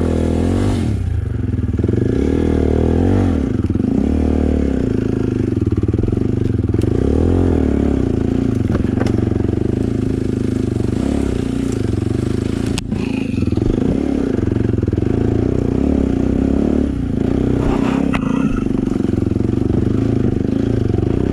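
Dirt bike engine running steadily on a trail ride, its pitch rising and falling a little with the throttle. A sharp knock sounds about two-thirds of the way through.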